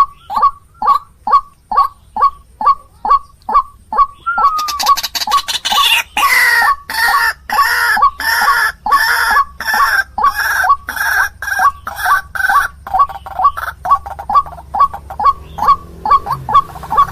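White-breasted waterhen (ruak-ruak) calling, a fast repeated series of short notes, about two to three a second. From about four seconds in to about thirteen seconds the calls turn louder and harsher, then return to the regular series.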